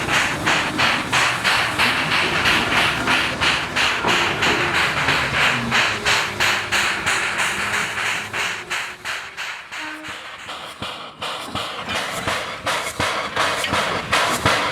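JS-class 2-8-2 steam locomotive working, its exhaust beating evenly about four times a second over a steady hiss. The beats fade somewhat about two-thirds of the way through, then come back stronger near the end.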